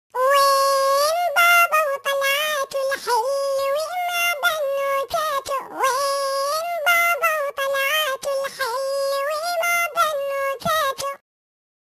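A high, pitch-shifted cartoon-style voice singing a wordless tune in held notes that step up and down. It stops about a second before the end.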